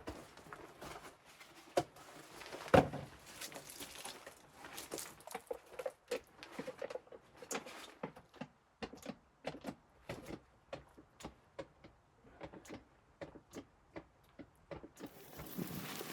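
Irregular series of sharp clicks and light knocks, with one louder knock about three seconds in.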